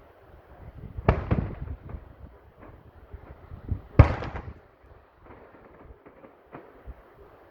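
Fireworks exploding overhead: two loud bangs about three seconds apart, each followed by a brief run of smaller crackles.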